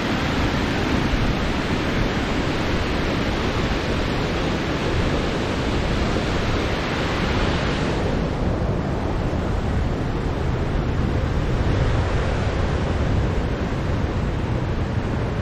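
Steady rushing of a river waterfall. Its high hiss softens a little about eight seconds in.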